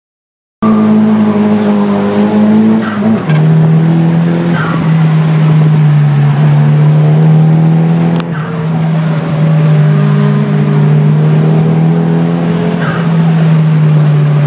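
Nissan 200SX S14's four-cylinder engine running hard under load. It cuts in suddenly just after the start, drops in pitch at a gear change about three seconds in, then holds a steady, loud note.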